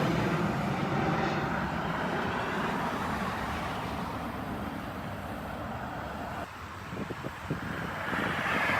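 Jet airliner engines, a broad rumbling roar that slowly fades as the aircraft moves away, drops off suddenly about six and a half seconds in with a few short knocks, and builds again near the end.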